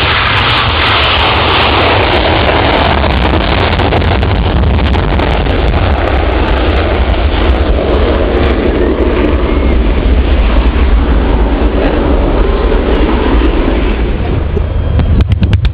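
Loud, steady roar of aircraft engines at an airshow flying display, heavy in the low end, with a run of rapid crackles near the end.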